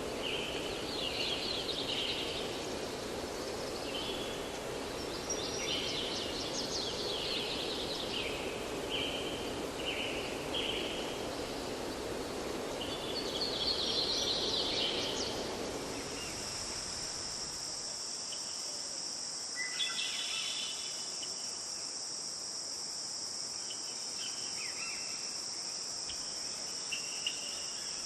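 Outdoor nature ambience. For the first half, short bird chirps ring out over a steady hiss. About halfway through the sound changes abruptly to a steady, high, continuous insect trill such as crickets, with a few faint chirps.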